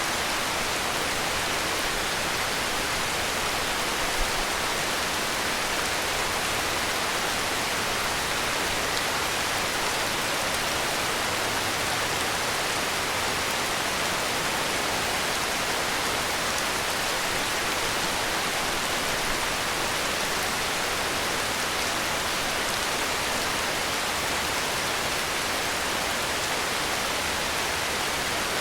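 Heavy rain falling in an even, steady hiss, with one brief louder tap about four seconds in.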